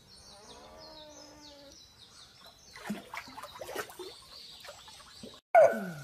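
Small birds chirping, a string of short high falling chirps. Near the end, after a sudden cut, there is a loud cry that falls in pitch.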